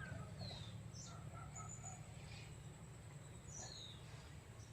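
Small birds chirping faintly: scattered short high chirps and quick falling whistles, over a steady low background rumble.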